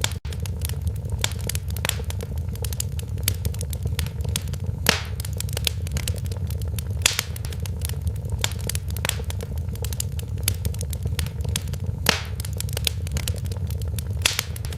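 Wood fire crackling in a fireplace: a steady low rumble of burning under constant small crackles, with a few louder pops about 5, 7 and 12 seconds in.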